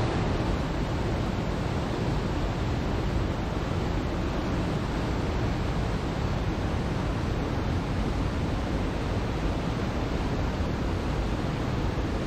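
Steady, even rushing noise with no swells or breaks.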